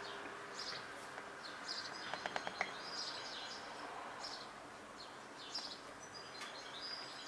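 Small birds chirping in short high calls, about one a second, over a steady background hiss, with a brief run of clicks about two seconds in.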